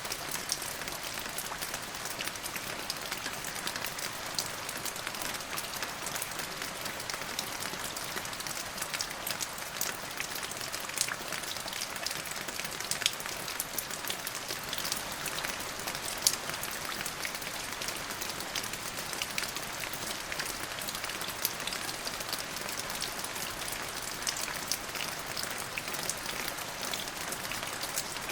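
Steady rain falling, an even hiss full of close, sharp drop patters on a surface, with a couple of louder drop hits around the middle.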